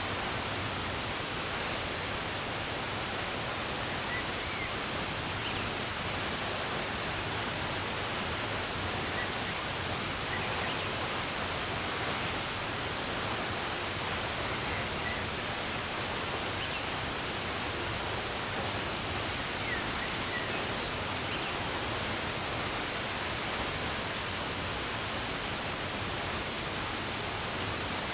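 Steady rushing of running water, with a few faint, scattered bird chirps over it.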